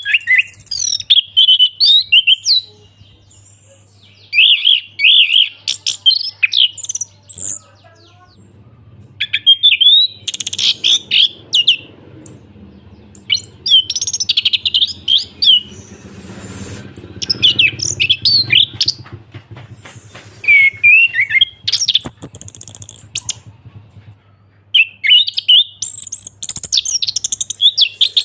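Orange-headed thrush singing a loud, continuous-style song of fast, varied warbling and whistled notes, delivered in phrases a second to a few seconds long with short pauses between them. A faint steady low hum lies underneath.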